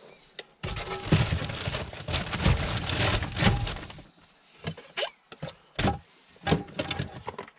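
Gear being handled and packed away: a few seconds of rustling and scraping, then a string of separate sharp knocks and clatters.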